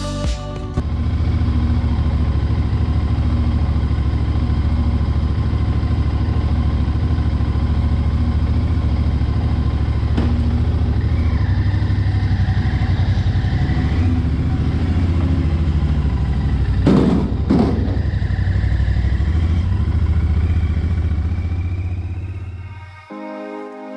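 Royal Enfield Interceptor 650's parallel-twin engine running steadily at idle. About two-thirds of the way through there are two sharp knocks about half a second apart.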